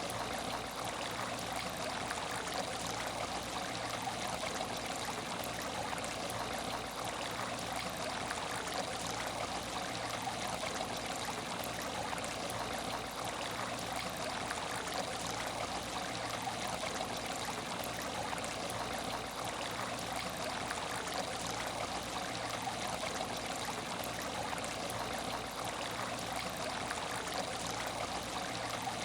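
Water in an aquarium tank running and trickling steadily without a break, with a faint steady hum underneath.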